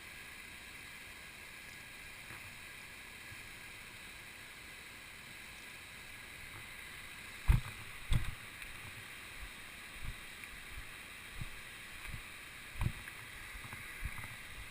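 Steady rush of flowing water from the stream or waterfall. From about halfway, a series of short low thumps and knocks.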